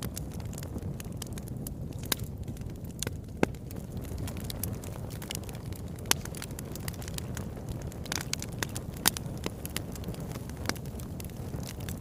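Wood fire burning in a fireplace: a steady low rumble of flames with irregular sharp crackles and pops, a few louder snaps scattered through, more frequent toward the latter part.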